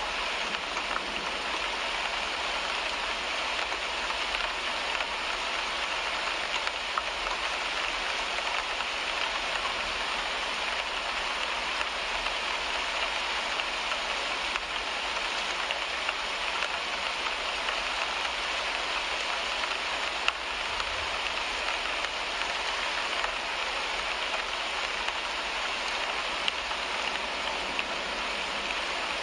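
Steady rain falling on a car windshield, heard from inside the car, with an occasional louder single drop tick.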